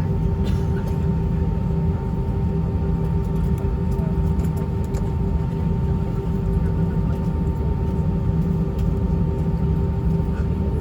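Cabin noise inside an Airbus A320-232 taxiing with its IAE V2500 engines at idle: a steady low rumble with two steady hum tones on top, unchanging throughout.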